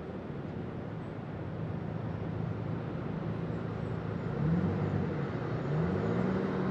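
Steady city street ambience, a low even traffic rumble that grows slowly louder, with a low tone that rises and falls twice in the second half.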